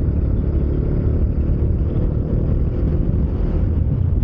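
Bajaj Dominar 400 single-cylinder engine running at a steady cruise under way, heard as a heavy, even low rumble mixed with riding noise.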